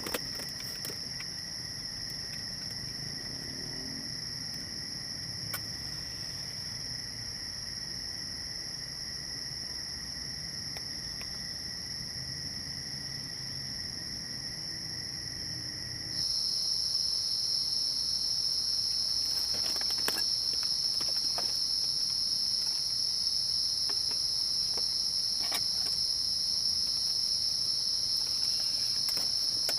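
Steady, high-pitched chorus of forest insects chirring without a break. About halfway through it jumps abruptly louder and a little lower in pitch, with a few light ticks scattered through the second half.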